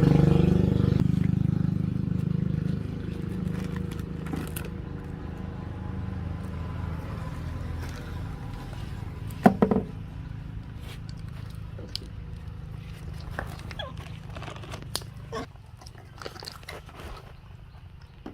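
A motorbike engine runs with a low, steady hum that fades gradually. Scattered small clicks and taps sound over it, with one sharper knock about halfway through.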